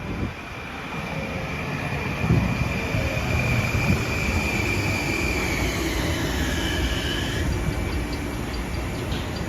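Long Island Rail Road M9 electric multiple-unit train pulling into the station, growing louder as it comes in, with a high steady whine that drops in pitch as it slows, over a rumble with a couple of low thumps.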